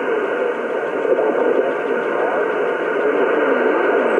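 A distant station's voice coming through a ham radio transceiver's speaker on single-sideband: thin, band-limited speech over a steady hiss of band noise.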